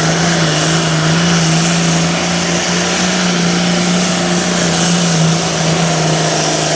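Diesel engine of a 466 hot farm class pulling tractor running flat out under full load as it drags the weighted sled. The engine note holds steady at high revs.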